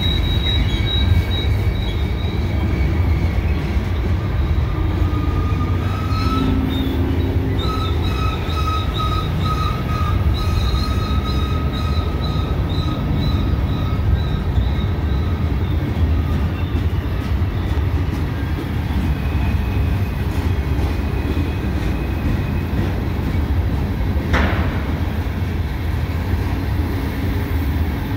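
Covered hopper cars of a freight train rolling past on curved track: a steady, heavy rumble of wheels on rail, with high-pitched wheel squeal that comes and goes, flanges grinding against the rail through the curve of the wye leg.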